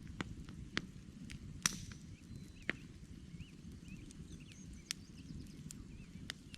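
Wood campfire burning: irregular sharp pops and crackles from the logs, the loudest about a second and a half in, over a low steady rumble of the flames. Faint bird chirps come through in the middle.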